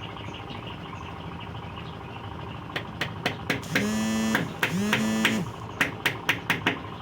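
A hammer driving nails into scrap wood: a run of sharp knocks, quickening to about four a second near the end. Two short, steady horn beeps sound in the middle of it.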